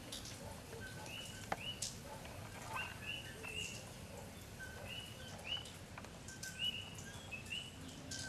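Small birds chirping: short, high calls that drop in pitch at the end, repeated in little clusters, over a steady low outdoor hiss. A couple of sharp clicks come about a second and a half in.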